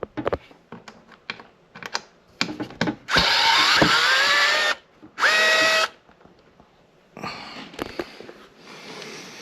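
A power drill/driver running in two bursts, the first about a second and a half, the second under a second, its motor whine rising in pitch as it spins up. Scattered clicks and knocks come before the bursts, and a softer scraping follows near the end.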